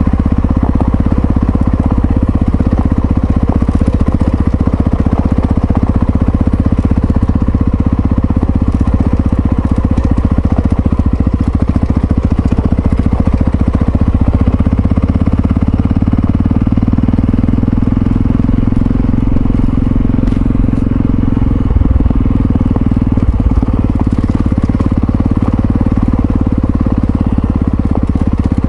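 Yamaha Ténéré XT660Z's single-cylinder engine running steadily while riding, with a couple of short knocks about two-thirds of the way through.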